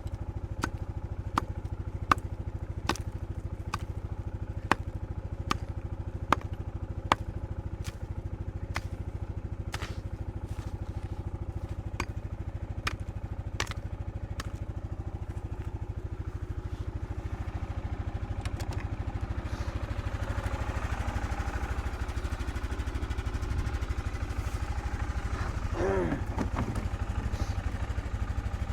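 A small engine idling steadily. In the first half a sharp tick sounds about once a second, and near the end there is a short sound that falls in pitch.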